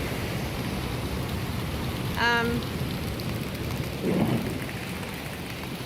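Steady rushing hiss of heavy rain, with a short shouted exclamation about two seconds in and a brief low rumble a little after four seconds.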